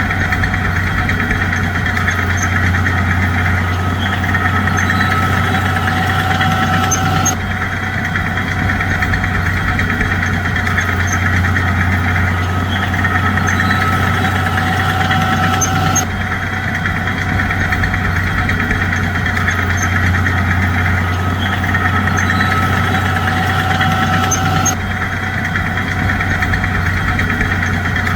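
Heavy diesel engine running steadily at a constant pitch with a deep hum, with no revving or load changes. The same stretch of engine sound repeats with abrupt joins about every nine seconds.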